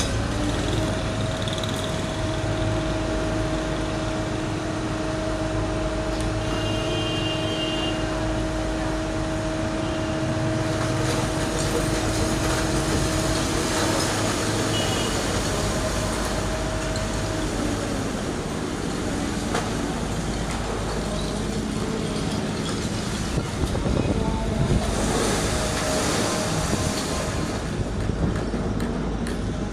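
Diesel engine of a JCB machine running steadily under work, with a steady whine through the first half. Knocks and a louder stretch of clattering noise come about three-quarters of the way through.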